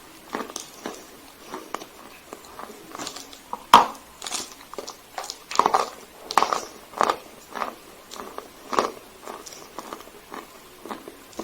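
Dry Sevryukovo chalk being bitten and chewed: a string of sharp, irregular crunches, the loudest bite about four seconds in.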